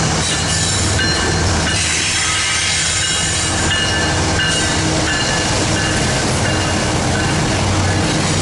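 Freight train rolling past with a loud, steady rumble of wheels on the rails and short, high wheel squeals scattered through it.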